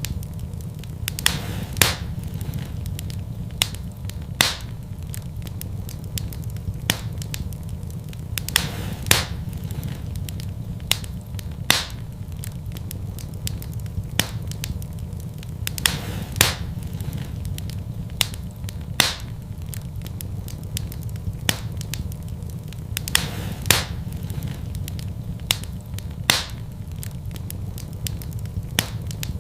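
Fire burning in a fireplace: a steady low rumble of flame with sharp crackles and pops at irregular moments, about one every second or two.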